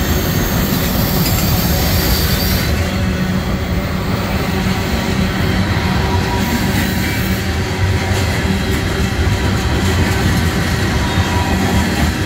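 Freight cars of a manifest train, autoracks and then tank cars, rolling past close by. Their steel wheels make a loud, steady noise on the rails, with faint high-pitched tones over it and scattered clicks in the second half.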